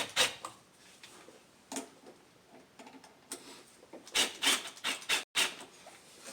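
Ratchet with an 8mm socket working a fastener under the hood, giving scattered sharp clicks and light metal knocks.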